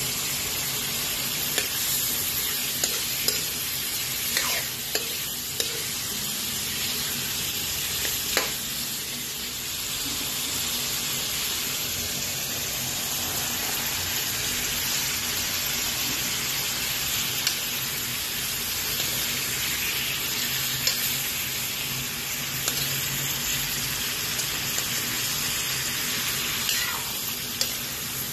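Squid rings and whole shrimp sizzling in a frying pan with a steady hiss, stirred with a metal spoon, with occasional sharp clicks and pops.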